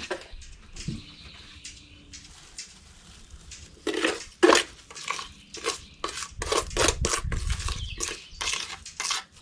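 Wet cement being stirred by hand, a mixing tool scraping and clinking against the side of its container. It is fairly quiet at first, then from about four seconds in comes a quick run of scrapes and knocks.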